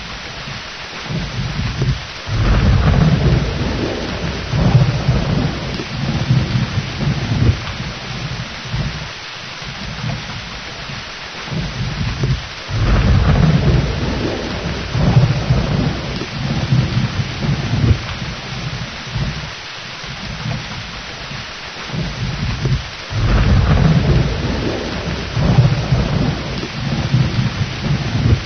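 Steady rain with rolling thunder: three long, low rumbles, each starting suddenly, about ten seconds apart.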